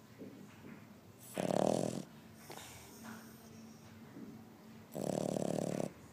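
Bulldog snoring: two loud snores, each about a second long and about three and a half seconds apart, with softer breathing between them.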